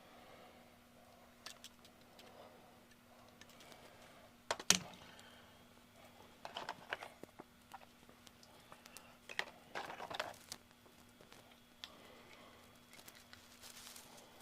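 Scattered light clicks and taps of small plastic model parts and hand tools being handled on a workbench, with one sharper click about a third of the way in and short clusters of tapping after it, over a faint steady hum.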